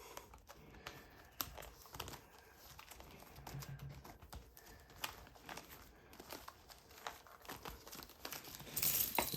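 Plastic shrink wrap on a trading-card booster box being picked at and crinkled, with faint scattered scratches and clicks, then torn more loudly near the end.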